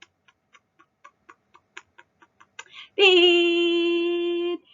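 Clock-like ticking sound effect, about four ticks a second, then about three seconds in a loud, steady held tone that lasts over a second and a half, a guessing-countdown cue.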